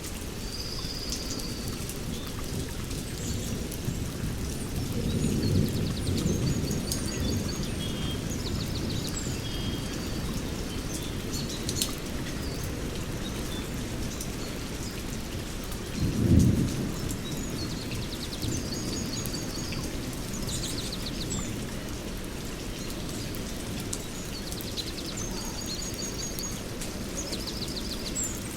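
Steady rain with rolling thunder: a low swell about five seconds in and a louder, sharper clap about sixteen seconds in. Birds chirp and trill repeatedly above the rain.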